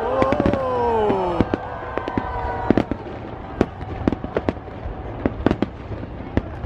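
Fireworks bursting in an irregular string of sharp bangs and crackles over a low rumble. For the first second and a half a drawn-out tone falls in pitch over the bangs.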